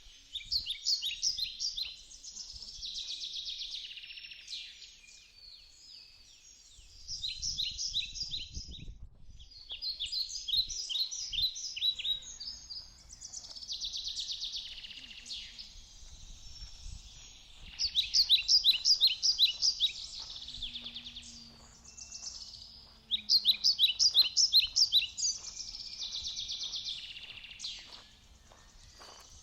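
A bird sings over and over in short, high, rapid trilled phrases, each one to two seconds long, with softer hissy chirring between them.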